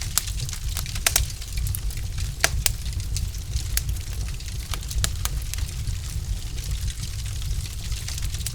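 Wood fire crackling in a fireplace: a steady low rumble of the flames with irregular sharp pops and snaps from the burning logs, a few each second.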